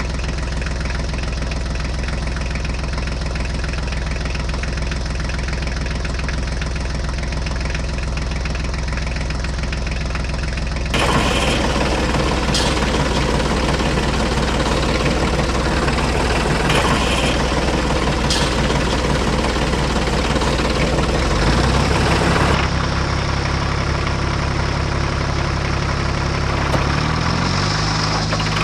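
Tractor engine running steadily with a knocking idle. The sound changes abruptly about eleven seconds in and again a little past twenty seconds, and the engine note rises shortly before the end.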